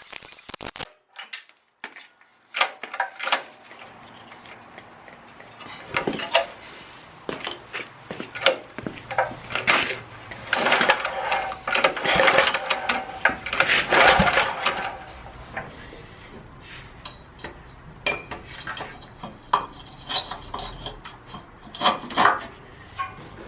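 Metal tools and small-engine parts clinking and clattering as the engine is reassembled and its bolts fitted and tightened, with a dense run of quick metallic clicks in the middle.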